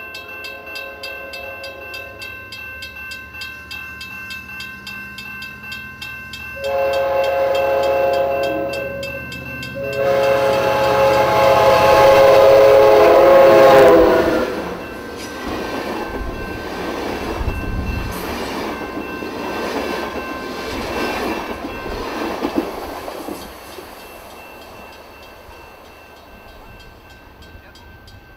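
Passenger train sounding its horn twice, a blast of about two seconds and then a longer one of about four seconds, followed by the train rolling past with a rumble that fades away.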